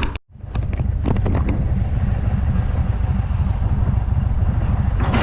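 Indian motorcycle engine running steadily at low speed, a continuous low rumble with wind buffeting the microphone. It comes in after a brief cut-out right at the start.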